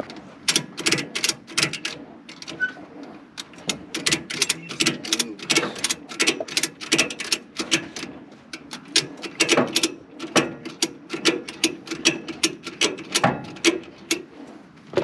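Ratchet tie-down strap being worked to cinch a dirt bike onto a tow truck: a long run of sharp ratchet clicks, several a second, with brief pauses.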